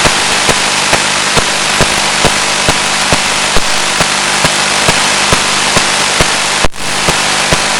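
Loud, steady hiss of radio static from an analog FPV video receiver's audio channel, with a low hum and sharp ticks about twice a second. It cuts out briefly near the end.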